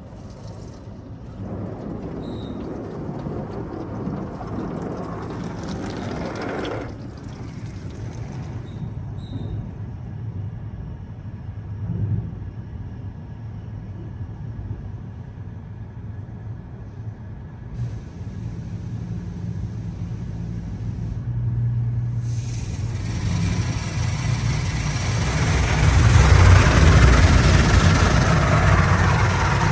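Mark VII ChoiceWash XT rollover car wash running its soft-touch cycle: motors humming under spraying water. About three-quarters of the way through, a loud steady rushing hiss starts and builds to its loudest near the end.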